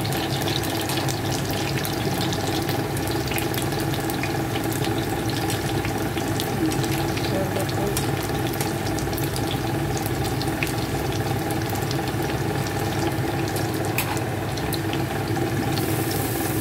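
Eggplant slices frying in hot oil in a non-stick pan: a steady sizzle full of fine crackles, over a constant low hum.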